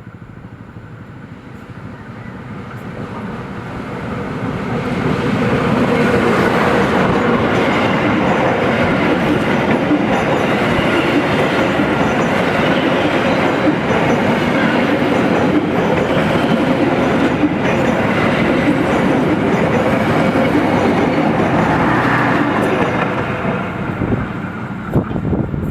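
Argo Parahyangan passenger train, diesel-hauled, passing through the station: the sound of the train on the rails builds over about four seconds, stays loud and steady for about seventeen seconds, then dies away near the end.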